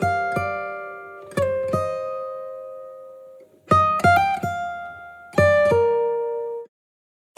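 Background music: a plucked acoustic guitar plays short groups of notes that ring out and fade away. It cuts off suddenly shortly before the end.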